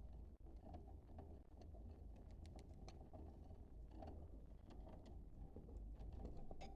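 Faint budgerigar chatter: scattered short clicks and chirps from budgies, over a low steady hum.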